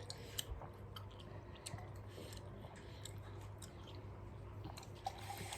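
Someone chewing crisp raw cabbage close to the microphone: quiet, irregular crunching clicks, over a low steady hum.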